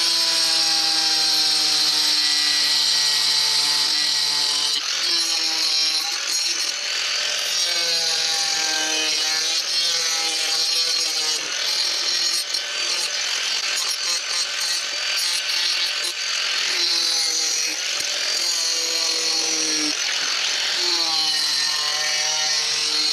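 Power saw with a diamond blade cutting concrete pieces: a steady motor tone over a high hiss, its pitch sagging and recovering again and again as the blade bites into the material.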